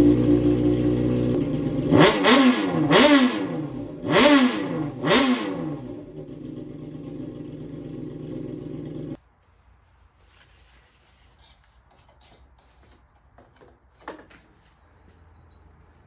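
Honda CBR600RR inline-four running through a slip-on exhaust with the baffle removed, loud and raw: held at raised revs, then blipped four times with quick rising and falling revs, settling to idle before cutting off suddenly about nine seconds in.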